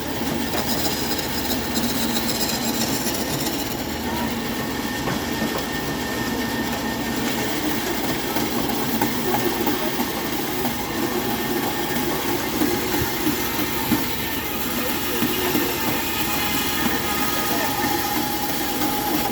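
Bandsaw running and cutting as a piece is shaped on it: a steady, loud mechanical noise that holds at an even level throughout.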